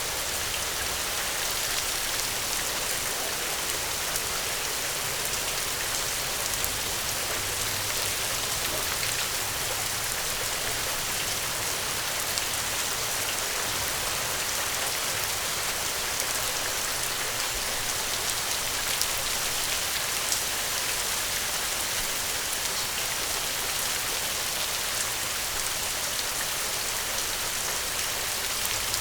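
Steady rainstorm: a dense, even hiss of rain with scattered small ticks of drops.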